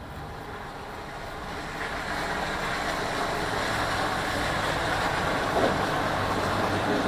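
A large vehicle's rumble growing steadily louder over the first few seconds, then holding, with a short louder blip about five and a half seconds in.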